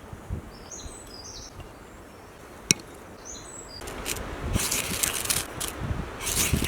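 Small birds chirping in the first half, a single sharp snap, then from just past halfway a run of crackling rustles and soft thuds of dry leaves and twigs being moved.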